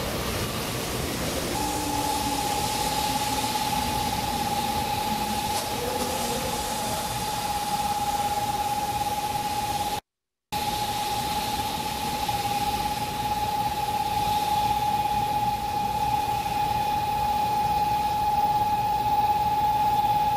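0 Series Shinkansen train moving slowly through a station platform, with a steady rushing rumble and a low whine falling in pitch in the first couple of seconds. A constant high tone runs over it for nearly the whole stretch. The sound cuts out for a moment about halfway.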